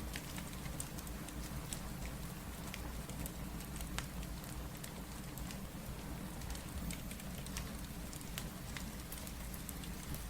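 Steady rain with a low rumble, mixed with the crackle of a fireplace: many scattered sharp pops and ticks over an even hiss.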